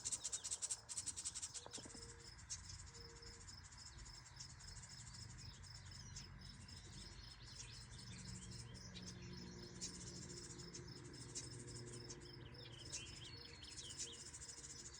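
Faint outdoor ambience: a steady, high-pitched insect trill, with a few short bird chirps in the second half.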